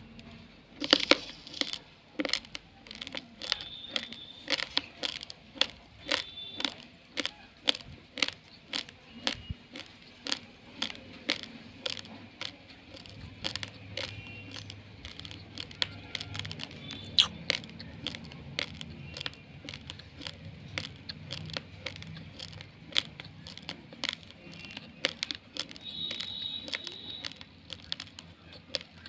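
Raw, uncooked rice grains being crunched between the teeth: a steady run of sharp cracks, about two a second, the loudest about a second in.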